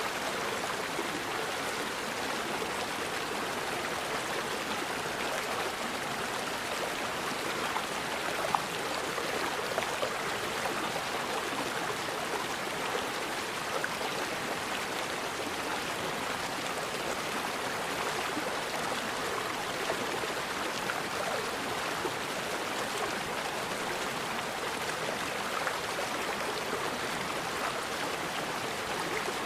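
Forest river flowing steadily over rocks, an even rushing and splashing of water with a few small splashes standing out about a third of the way in.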